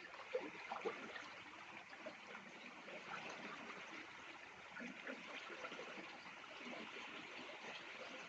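Faint, steady rush of moving water, like a stream or water trickling along the shore.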